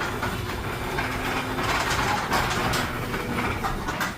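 A chain-drive garage door opener running as it lowers the door, with a steady motor sound and the chain clattering. The sound cuts off right at the end as the door reaches the floor.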